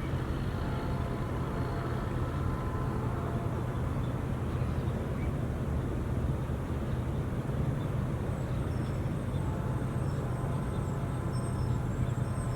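A steady, low engine drone with no change in level. A faint high whine comes in about two-thirds of the way through.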